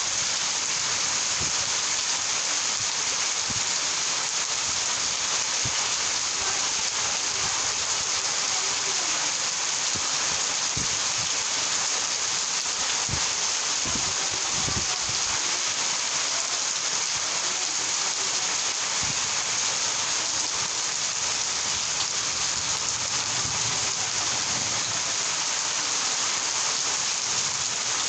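Steady rain falling, a dense, even hiss with scattered heavier drops striking close by.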